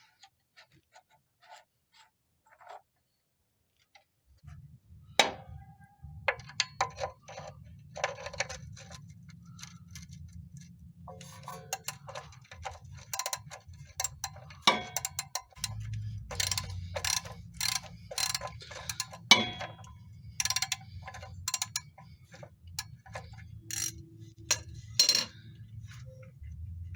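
A run of sharp clicks and knocks, some coming at a fairly even pace, over a steady low hum. The hum sets in about four seconds in and grows louder about halfway through.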